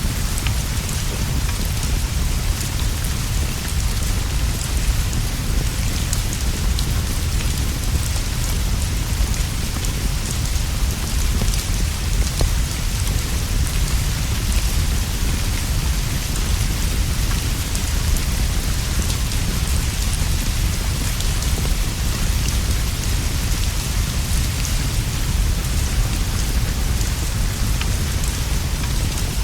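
Steady rainfall on leaves and a straw roof, with a constant low rumble underneath and faint scattered ticks of drops.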